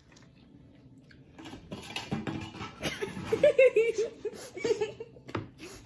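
Laughter: a run of quick, repeating giggles that starts about two seconds in, is loudest in the middle and fades near the end.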